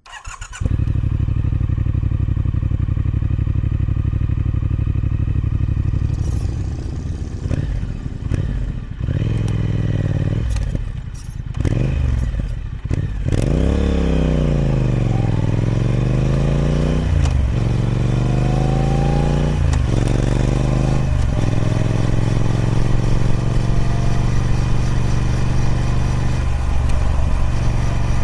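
Triumph Speed Twin 1200's 1200cc parallel-twin engine running through its stock exhaust. Its note is steady at first. Through the middle the revs fall and climb several times, with a few short breaks, and it settles back to a steady note after about 21 seconds.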